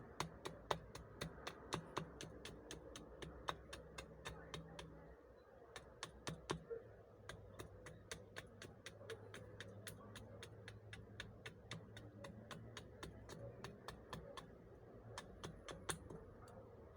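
A knife shaving thin curls down a wet wood splint to make a feather stick, each stroke a short sharp click, about four a second, with a short pause about five seconds in.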